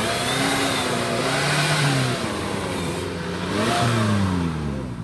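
Off-road 4x4 engine revving hard under load, its pitch climbing and falling twice, with the highest peak a little before the end.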